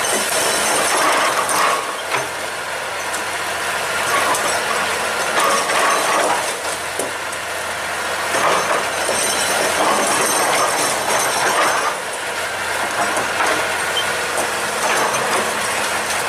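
Excavator at work: its engine running under load with metallic clanking and squealing from the machine. The noise swells and eases every few seconds, with bursts of high squeal.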